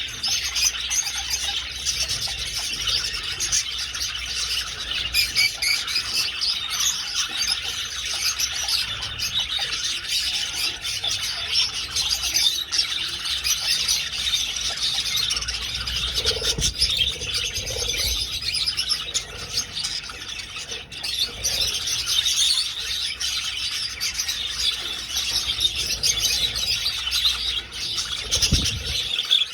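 A flock of budgerigars chirping and chattering together in a dense, unbroken stream of many overlapping calls.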